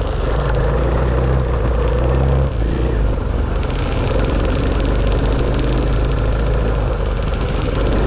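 Dirt bike engine running as the bike is ridden off-road, its note shifting about two and a half seconds in.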